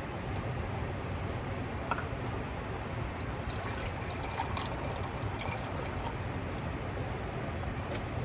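Chicken gnocchi soup in a pot heating toward a boil: steady liquid noise with a few small clicks and drips.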